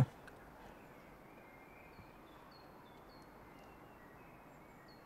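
Faint outdoor ambience: a bird chirping in short, repeated falling notes over a low steady hiss.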